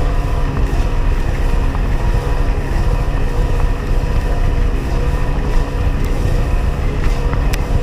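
Sea-Doo XP personal watercraft's 80 hp two-stroke engine running at a steady throttle while riding over choppy water, with wind buffeting the microphone.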